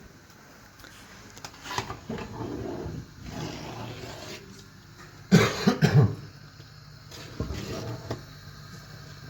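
A person coughing, a short run of loud coughs about five seconds in, with smaller throat sounds before it.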